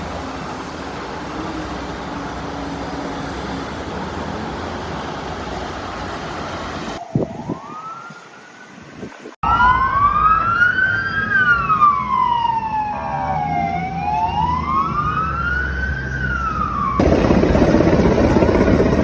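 Emergency vehicle siren wailing, its pitch sweeping slowly up and down over a few seconds, heard through the middle of the stretch. Before it there is a steady rushing noise, and near the end a louder rushing noise takes over.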